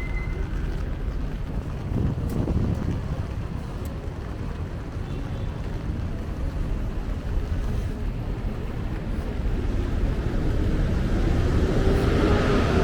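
City street traffic on a wet road, with wind rumbling on the microphone. A vehicle draws closer near the end, getting louder with a low hum.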